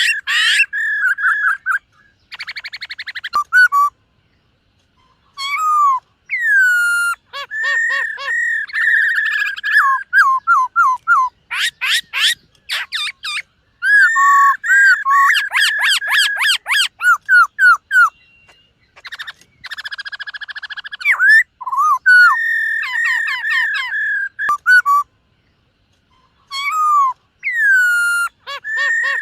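Black-throated laughingthrush singing: loud bouts of clear whistled phrases, slurred downward notes and fast repeated notes, broken by short pauses.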